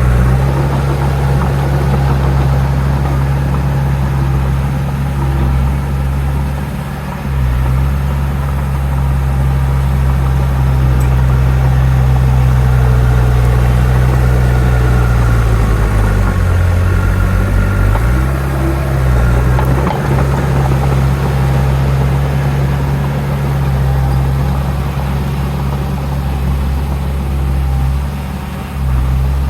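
Heavy diesel engine of earthmoving machinery running steadily under work. Its pitch sags for a couple of seconds about halfway through, and its level drops briefly twice as the load changes.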